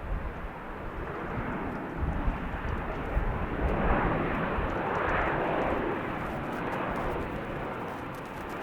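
Airplane flying past, its engine noise swelling to a peak about four to five seconds in and then fading, with a deep rumble underneath.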